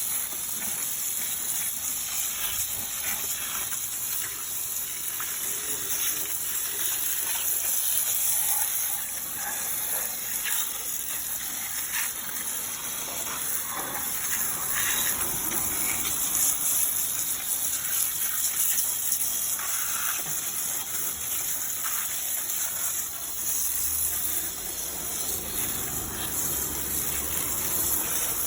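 Water spraying and splashing over a car's engine bay during a wash, a steady hiss with small patters as it hits the parts.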